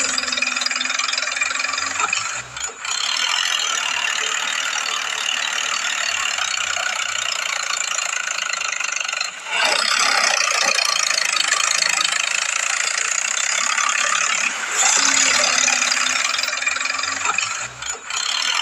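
Toy vehicle making a steady rattling, engine-like running noise, broken by brief dips a few times.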